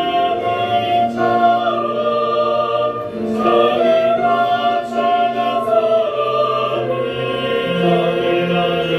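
Church choir singing a slow worship song with orchestral accompaniment, sustained chords changing every second or so.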